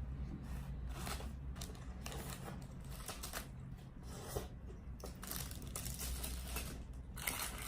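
Burger wrapping paper crinkling and rustling in irregular bursts, busier in the second half, over a steady low hum.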